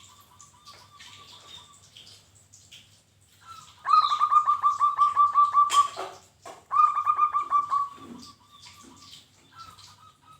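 Zebra dove (perkutut) singing: quick runs of short, repeated cooing notes, two loud runs in the middle with fainter ones before and after. Smaller birds chirp faintly in the background, and a sharp click sounds between the two loud runs.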